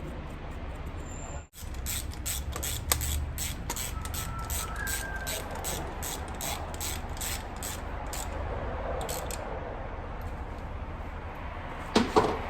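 Ratchet wrench clicking in a steady rhythm of about three clicks a second during engine reassembly work. Near the end comes a brief metallic clatter of parts being handled.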